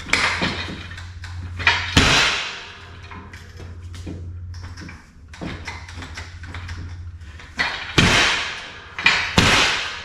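Hydraulic pipe bender working steel exhaust pipe: several sharp metallic clanks and pops that ring on briefly, one near the start, one about two seconds in and two near the end, over a steady low hum.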